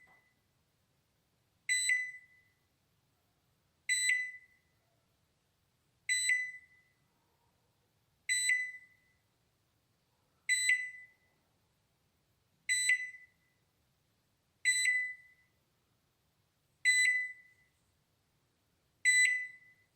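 Balay microwave oven's timer beep repeating about every two seconds: a single short high tone that fades quickly, nine times over.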